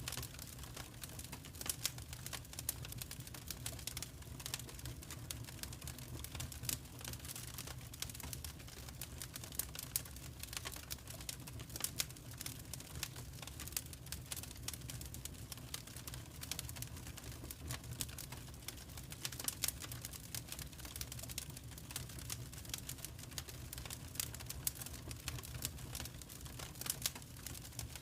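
Wood fire crackling in a fireplace: a steady low rumble of the flames with irregular sharp crackles and occasional louder pops.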